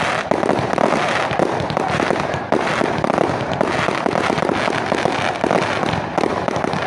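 Fireworks going off in dense, rapid succession: a continuous crackle of many small pops and bangs with no pause.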